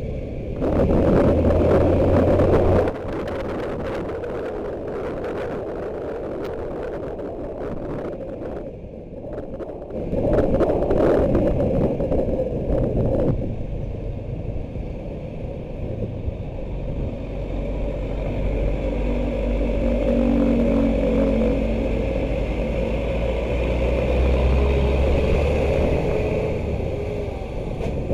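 Motorcycle riding in traffic: engine and road noise throughout, with two louder stretches of a few seconds each, near the start and about ten seconds in, and a deeper rumble building in the latter half.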